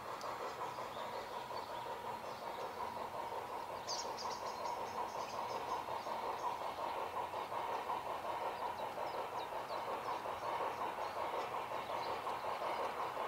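G-scale garden-railway model train running along the track, a steady rolling, clattering noise that grows a little louder about four seconds in. Birds chirp faintly in the background from about then on.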